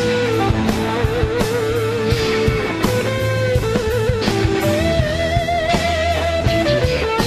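Blues-rock band playing an instrumental section: an electric guitar solo with held, wavering vibrato notes over bass and drums.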